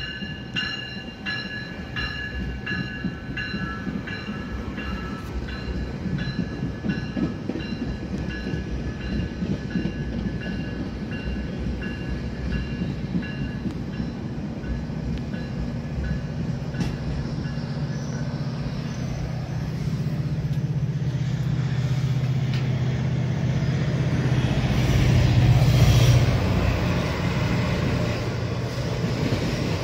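GO Transit commuter train of bilevel coaches rolling slowly past, with a locomotive bell ringing steadily through the first half. Then the low drone of the MP40PH-3C diesel locomotive builds, loudest near the end.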